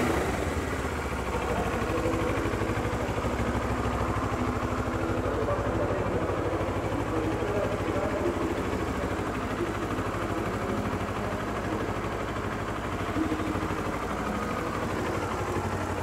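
Kawasaki Ninja 650R's 649 cc parallel-twin engine idling steadily.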